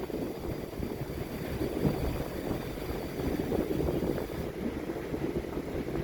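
Wind buffeting the microphone in uneven gusts, over a low rumble.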